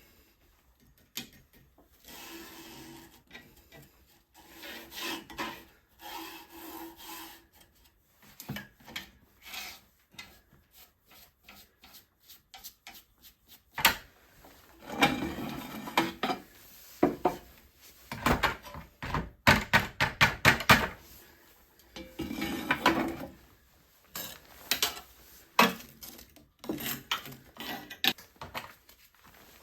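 Firewood being worked by hand: irregular rasping and scraping strokes of wood on wood, with short knocks, heaviest in bursts around the middle.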